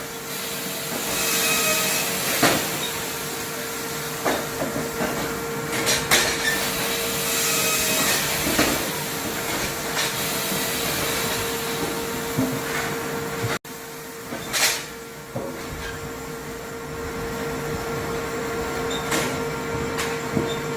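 Firewood production machinery running: a steady motor hum with swells of hissing and several sharp knocks a few seconds apart.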